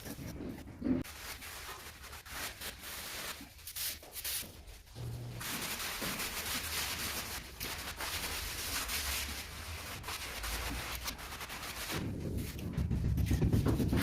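A trowel scraping and smoothing over a cement mortar bed: a steady rubbing scrape that starts about five seconds in and runs for about six seconds.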